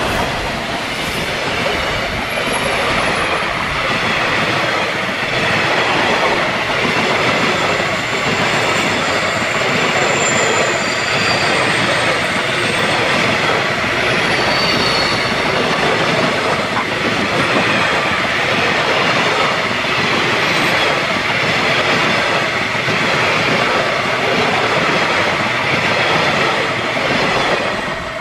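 Passenger coaches of an electric-hauled train rolling past close by: a loud, continuous rumble and rattle of steel wheels on the rails, falling off sharply as the last coach passes at the end.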